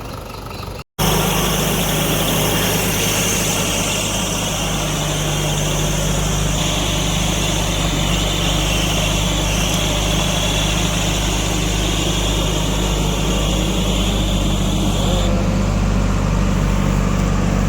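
A heavy diesel engine running steadily at a constant speed, after a brief dropout about a second in.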